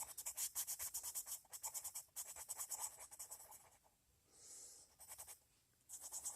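Colored pencil shading on paper: rapid back-and-forth scratchy strokes, several a second, faint. They stop a little past halfway and start again near the end.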